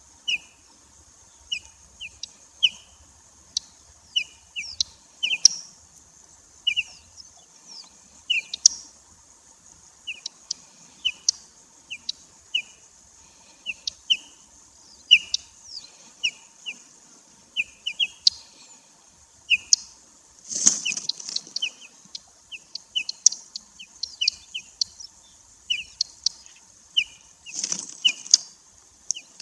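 Birds calling with short, repeated chirps, each a quick downward sweep, coming every half second to a second over a steady high hiss. Two louder, longer bursts stand out, about two-thirds of the way in and near the end.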